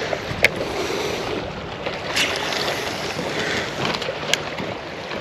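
Steady wind and lapping water at the shore, with three short sharp clicks spread through it.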